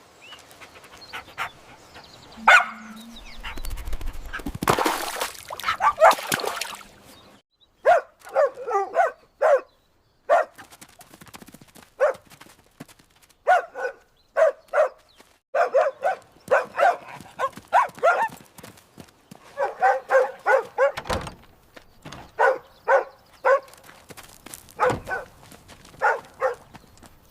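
A puppy yelping and whimpering in runs of short, high cries, several a second, over and over. Knocks and a low rumble come before the cries in the first several seconds.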